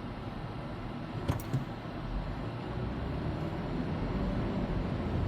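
Road and engine noise inside a moving car's cabin: a steady rumble, with two short clicks about a second and a half in, getting slightly louder toward the end.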